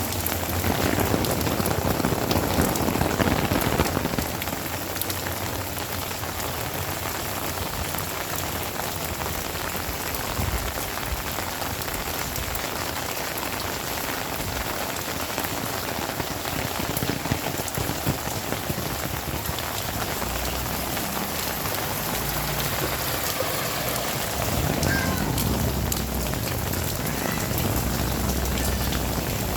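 Heavy rain falling steadily, a dense continuous hiss, swelling louder in the first few seconds and again near the end.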